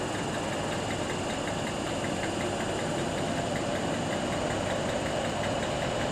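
Diesel train engine ticking over at idle: a steady engine noise with a faint, regular tick running through it.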